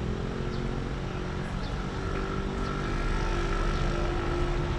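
A motor vehicle's engine running with a steady, even hum that grows slightly louder in the middle.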